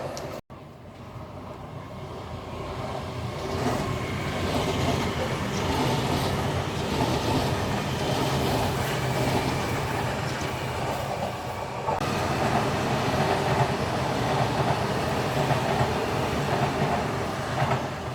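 Train running on the rails: a steady rumble and rattle that builds over the first few seconds and then holds.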